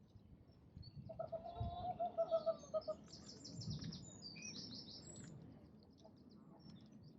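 Birds calling outdoors. About a second in comes a pitched, pulsing call lasting about two seconds, then rapid high chirping trills, all over a low rumbling background.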